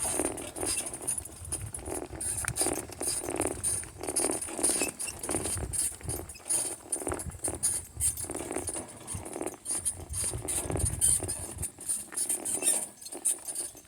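Harnessed donkeys and a person walking, a steady run of footsteps and hoofbeats.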